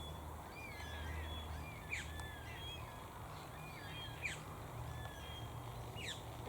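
Birds calling in the bush: a scatter of short chirps, brief whistles and quick downward-sweeping notes from several birds, over a faint low hum.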